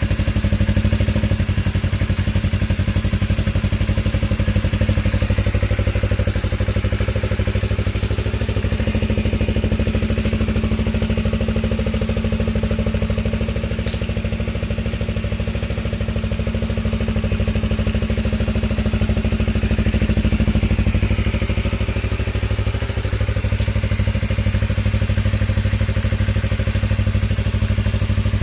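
Yamaha MT-25/R25's 250 cc parallel-twin engine idling steadily through a Protech aftermarket exhaust header.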